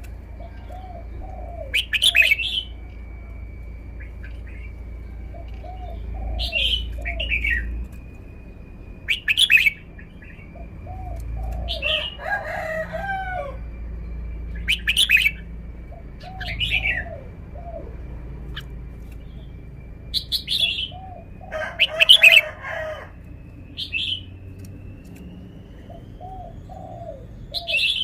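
Red-whiskered bulbul singing short, loud, clear phrases every two to three seconds. Between them a lower run of three or four notes repeats, and a thin steady high tone runs underneath. Two longer, fuller bursts come about twelve and twenty-two seconds in.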